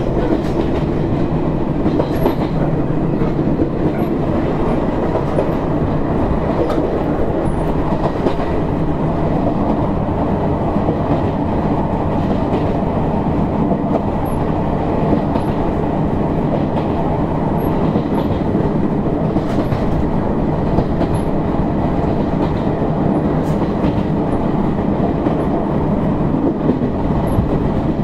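Izuhakone Railway Sunzu Line electric train, car 7301, running along the line as heard inside the car: a steady low rumble of motors and wheels with irregular clicks from rail joints.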